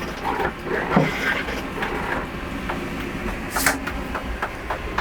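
Scattered knocks, clicks and rattles over a low rumble, with a short hiss about three and a half seconds in.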